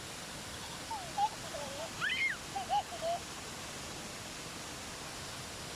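Akiu Great Falls rushing in a steady, even roar of falling water. A few short, rising-and-falling calls sound over it between about one and three seconds in.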